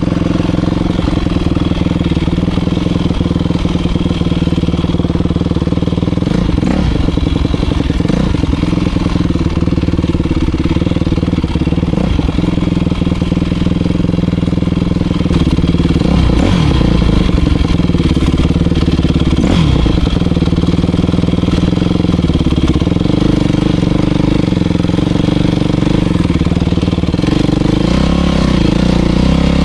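Motocross dirt bike engine running steadily under throttle, with a few short rises and falls in pitch and a shift in its note about three-quarters of the way through.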